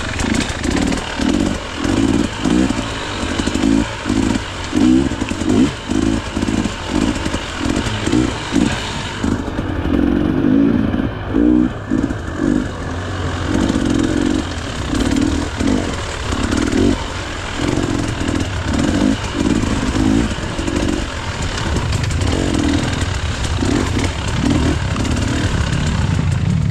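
KTM EXC 300 two-stroke enduro engine revved in short, repeated throttle blips, about two a second, over a steady low running note.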